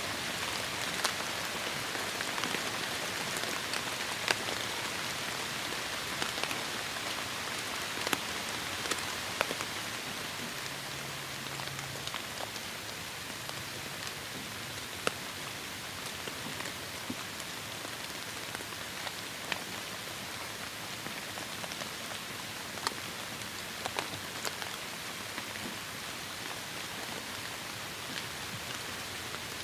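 Steady heavy rain falling, an even hiss with distinct drops tapping sharply here and there.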